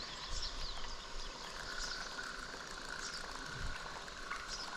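Outdoor riverside ambience: a steady hiss of background noise with scattered short high chirps and a faint thin tone through the middle.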